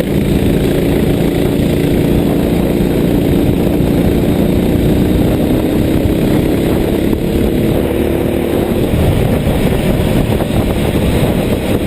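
A vehicle engine running under steady load with heavy road and rain noise. Its tone sags slightly in pitch, then fades into the noise about nine seconds in.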